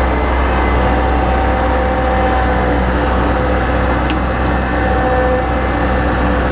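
An engine running steadily with a heavy low hum, and two light clicks about four seconds in.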